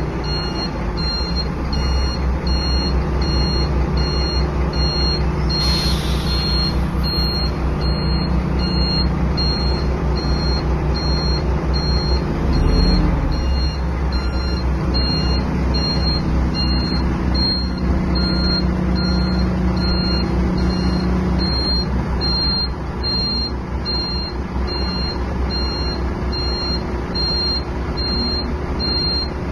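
ZBK A300D articulated dump truck's Cummins diesel engine running, with its reversing alarm beeping steadily about one and a half times a second. The engine swells briefly about twelve seconds in, and a short hiss sounds about six seconds in.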